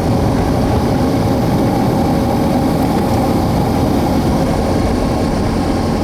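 Engine and propeller of a WAR Corsair half-scale homebuilt replica idling steadily on the ground.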